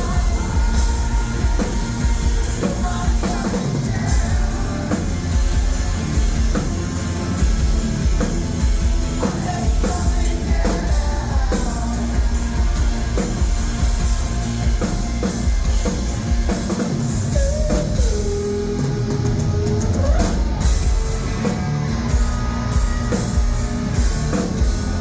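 A rock band playing live: a drum kit with steady, evenly spaced cymbal hits, guitars, and a sung lead vocal over a heavy low end.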